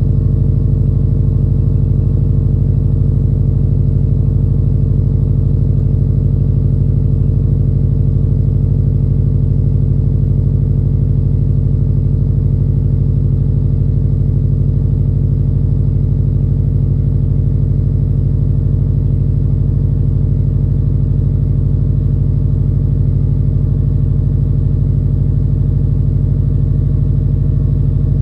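2020 Subaru STI's turbocharged flat-four exhaust note through a CP-E Austenite muffled axle-back exhaust, idling steadily on a cold engine. A deep, even rumble with no revs.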